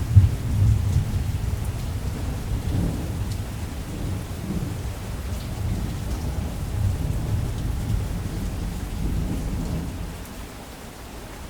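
Thunder rumbling long and low over steady rain. The rumble is loudest just after the start and fades out near the end.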